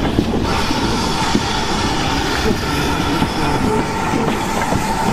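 GWR Prairie tank steam locomotive 5541 running past on the track, with a steady rumble of wheels and running gear. A steady high-pitched tone joins it about half a second in.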